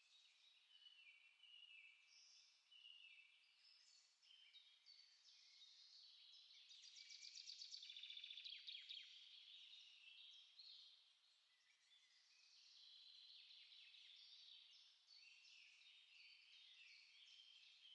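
Faint chorus of small songbirds singing, many overlapping chirps and warbled phrases, with a rapid trill about seven to nine seconds in that is the loudest part.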